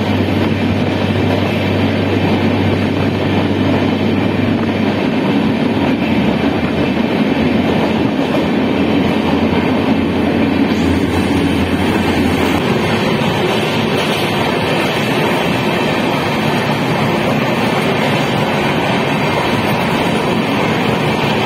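Passenger train running steadily, the constant rumble and rattle of the carriage heard from on board; a low hum underneath drops away about halfway through.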